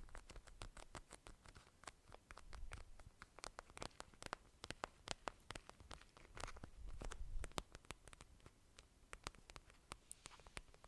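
Faint, close-miked ASMR mouth sounds: soft wet clicks and smacks coming several times a second at an uneven pace, with a denser run of them past the middle.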